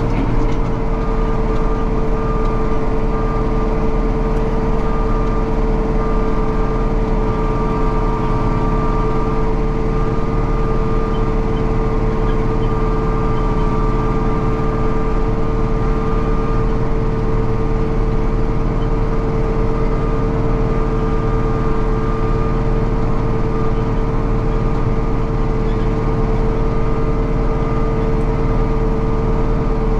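Farm harvest machine's engine and drives running at a steady speed, a constant drone with a steady whine over it.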